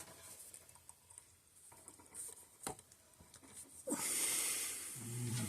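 Light clicks and ticks from handling the fence charger's wiring and parts, then a steady hiss about four seconds in.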